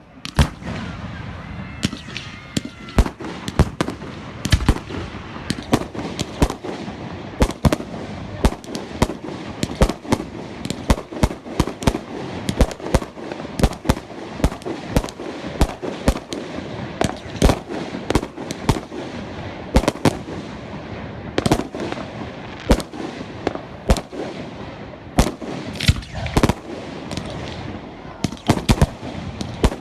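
Fireworks going off in quick, irregular bangs, often several a second, over a continuous crackle.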